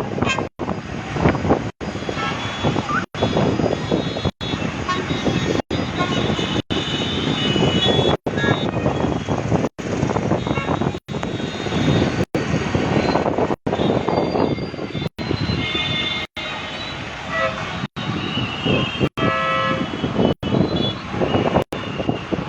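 Bus-stand traffic noise with buses and other vehicles running and several horns honking, most clearly near the end. The sound cuts out for an instant roughly every second and a half.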